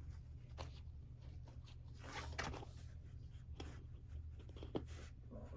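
Faint rustling and crinkling as the paper backing is peeled off a sheet of skateboard grip tape, with a louder stretch about two seconds in and a sharp click near the end, over a steady low hum.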